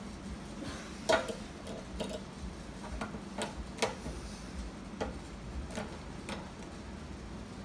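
Sharp metal clicks and taps, about eight at irregular spacing with the loudest about a second in, as pliers work the long adjustable screw of a gumball machine lock.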